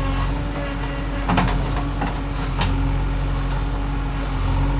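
Diesel engine running steadily, with two short knocks about a second and two and a half seconds in.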